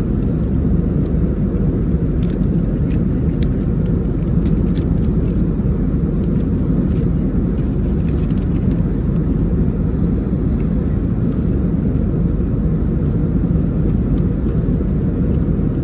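Steady in-flight cabin drone of an Airbus A321neo: engine and airflow noise, deep and even, with a few faint light clicks over it.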